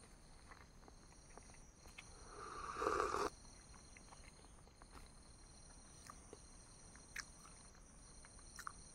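Faint mouth sounds of someone eating boiled eggs: soft scattered chewing clicks, and one breathy sound that swells for about a second and cuts off about three seconds in.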